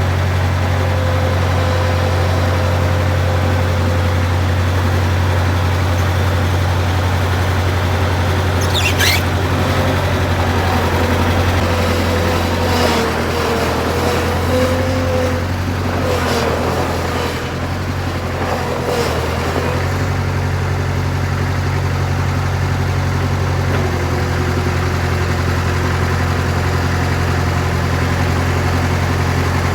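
Bobcat 7753 skid steer's Kubota diesel engine running steadily. A brief high squeal comes about nine seconds in, and between about twelve and twenty seconds the engine note shifts, with a wavering whine over it.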